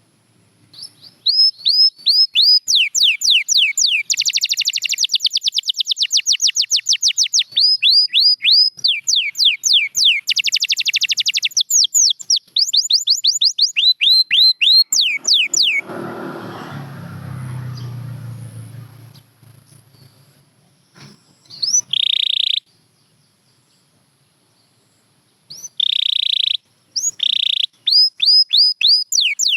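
Canary singing, with long rolls of rapidly repeated down-slurred notes, several per second, that pause and change speed. About halfway through there are a few seconds of low, unpitched noise. Near the end come short buzzy trills, and then the rapid rolls start again.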